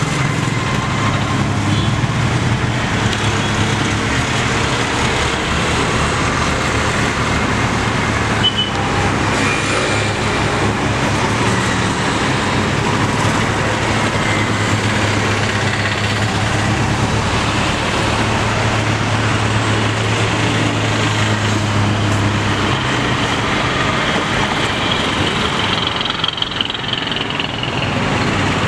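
A Willys military truck's four-cylinder diesel engine running with a steady low drone, which changes about three-quarters of the way through.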